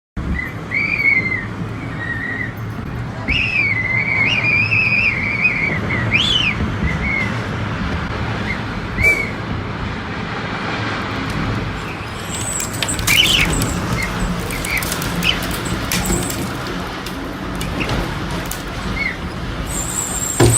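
A steady rushing noise, with high chirps and whistles that rise and fall over roughly the first seven seconds, then a few scattered clicks and a thin high tone after about twelve seconds.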